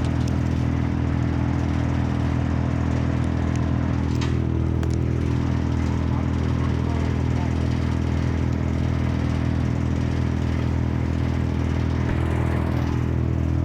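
A small engine running steadily at one even pitch, with no revving.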